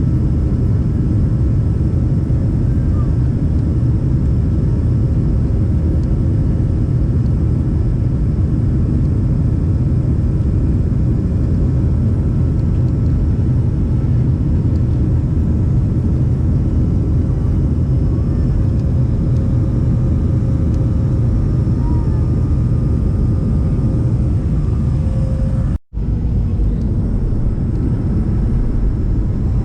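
Airliner engines droning steadily, heard inside the passenger cabin in flight. The drone breaks off for a split second near the end and then goes on.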